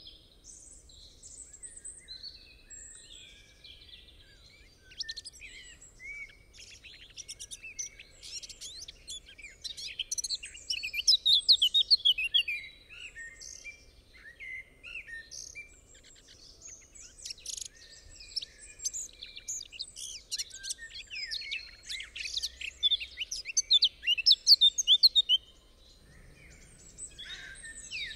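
Birdsong from several small birds: overlapping chirps and quick trills, with the busiest, loudest flurries about ten seconds in and again near the end.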